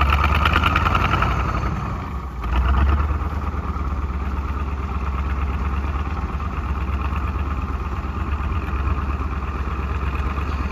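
KV-1 tank's V12 diesel engine running steadily with a deep rumble, dipping briefly about two seconds in and then picking up again.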